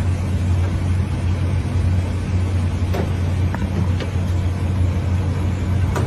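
A motor vehicle's engine running with a steady low hum, with a few faint clicks.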